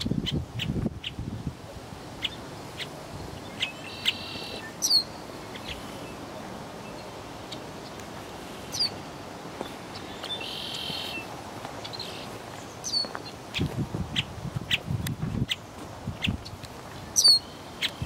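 Wild birds calling around a lake: short, sharp, falling chirps and buzzy high notes, spaced out, with a low rumble on the microphone near the start and again in the second half.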